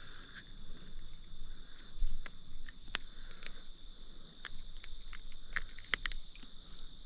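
Steady chorus of insects in the creek-side vegetation, two high even tones held throughout, with scattered sharp clicks and a soft low knock about two seconds in.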